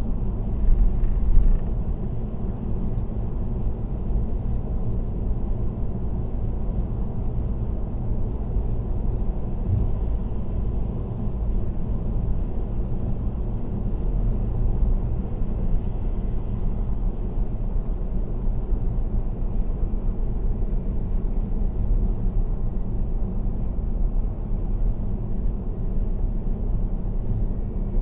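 Steady low road and tyre rumble of a car cruising on an expressway, with a brief louder bump about a second in.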